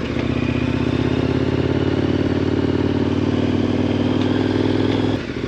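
KTM 1090 Adventure R's 1050 cc LC8 V-twin running at a steady engine speed under way, with a brief drop in engine sound shortly before the end.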